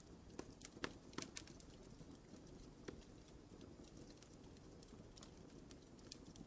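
Wood fire crackling in a fireplace: a cluster of sharp pops about a second in, and scattered lighter snaps over a faint low rumble.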